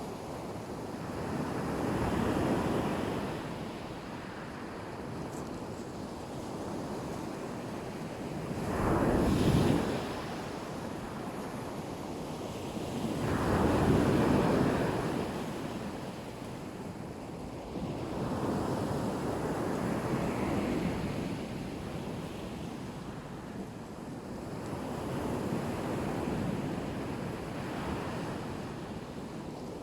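Black Sea surf: waves breaking and washing onto the shore, swelling and easing every few seconds, with one sharper, louder break about nine seconds in. Wind buffets the microphone.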